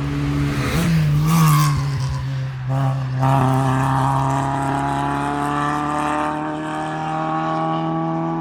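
A race car's engine held at high revs during a hill climb run. Its note wavers with a burst of noise about a second in, cuts briefly about three seconds in as at a gear change, then pulls on steadily with slowly rising pitch.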